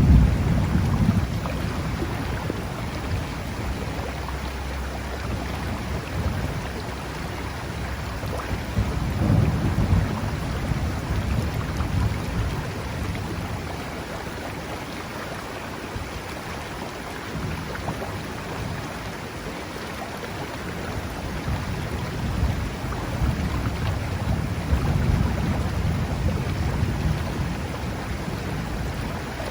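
Thunderstorm: steady rain hiss with low thunder rumbling, swelling at the start, again about nine seconds in, and once more near the end.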